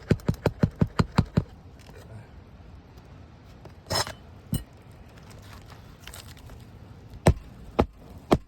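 Hammer driving roofing nails into an asphalt shingle: a quick run of light taps at about six a second in the first second and a half, then after a pause three harder single blows about half a second apart near the end. A short scuffing noise comes around the middle.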